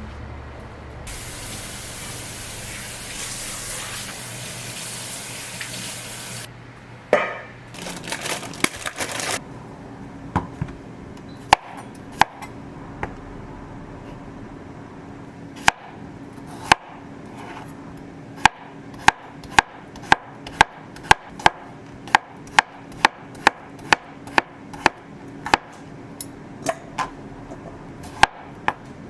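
Water running from a tap for several seconds, then a knife chopping on a cutting board: scattered strokes at first, settling into a steady rhythm of about two a second.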